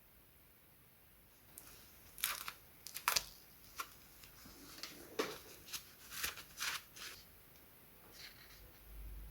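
A quick run of short crinkling, tearing handling sounds, about a dozen sharp rustles over some five seconds, then fainter ones near the end.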